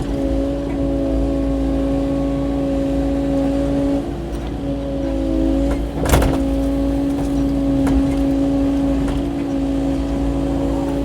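Kubota KX080-4 excavator's diesel engine running steadily under work with a constant whine, dipping briefly about four seconds in. A single sharp knock about six seconds in, with fainter clicks later.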